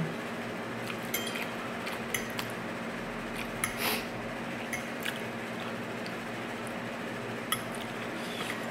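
Cutlery clinking and scraping lightly against a plate in scattered short clicks while a meal is eaten, with one longer soft rustle about four seconds in, over a faint steady hum.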